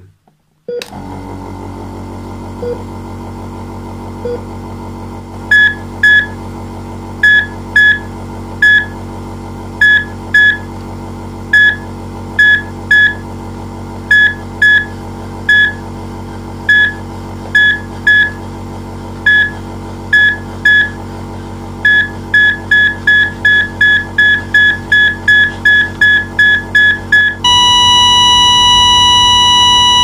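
Patient-monitor beeping over a steady low hum: short high beeps at an uneven pace from about five seconds in, coming faster and faster, then merging near the end into one continuous flatline tone, the sign that the patient's heart has stopped.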